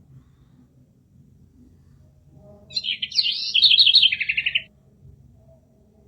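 A songbird singing one phrase of about two seconds, starting about halfway in: a few quick high notes, then a run of rapid notes stepping down in pitch that ends in a fast trill.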